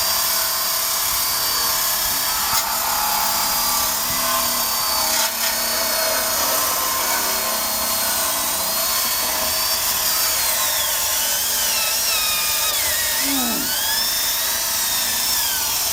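Electric drill spinning a wire brush against the rusty steel frame of a 1965 Honda Cub, a continuous whine and scrub as rust is scoured off. The motor's pitch wavers and dips several times near the end as the brush is pressed harder into the metal.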